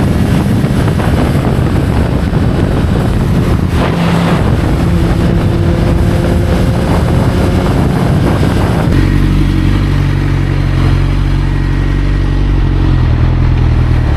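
Motorcycle engine running under the ride, with wind rushing over the microphone. About nine seconds in, the wind noise drops away and the engine settles into a steady idle as the bike comes to a stop.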